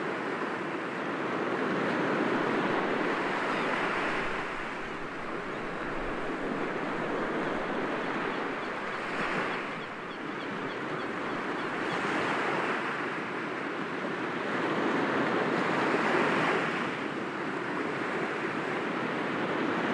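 Sea waves breaking gently against rocks, a continuous wash of surf that swells and recedes every few seconds.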